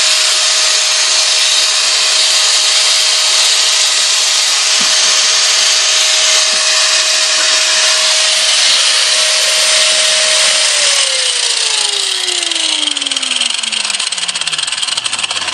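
Angle grinder cutting through sheet-metal plate: a loud, steady hiss of the disc in the metal over a steady motor whine. About eleven seconds in the motor is let go and spins down, its whine falling steadily in pitch while the hiss carries on.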